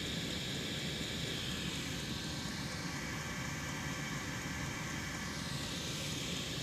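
Hcalory HC-A01 diesel air heater running on its highest setting, a steady whooshing of its fan and burner, with a HABIIID exhaust silencer fitted. The higher part of the sound fades slightly around the middle and returns near the end.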